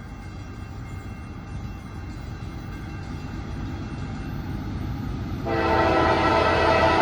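CSX freight train's diesel locomotives approaching with a low rumble that slowly grows louder; about five and a half seconds in, the lead locomotive's horn starts blowing a loud, steady chord for the grade crossing.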